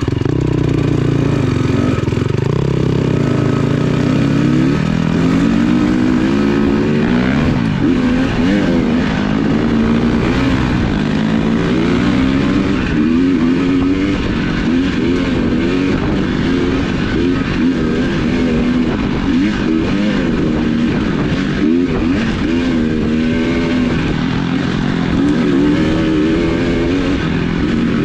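A vehicle engine running under way, its revs rising and falling over and over.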